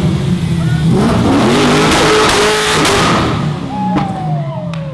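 BMW M3 E36's swapped-in LS V8 revving hard during a smoky burnout, the tyres spinning; the revs climb over the first few seconds, then fall away about four seconds in.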